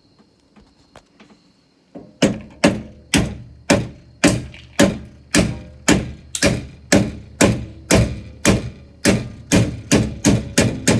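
Steady run of sharp knocks, about two a second, starting about two seconds in: a part being struck repeatedly, as when tapping or hammering something down.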